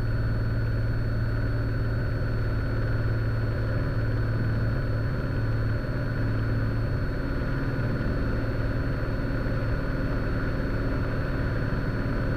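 Single piston engine and propeller of a Cessna Skylane running steadily in flight, a constant low hum heard inside the cabin.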